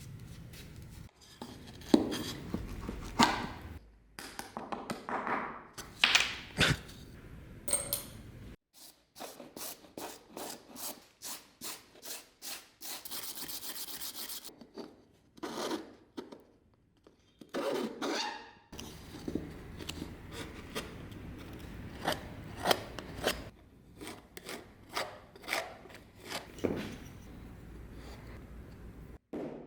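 Hand-working sounds on old wooden and metal spinning-wheel parts: irregular rubbing and scraping strokes with light knocks, including a run of steady strokes about two a second and a brief hiss about halfway through.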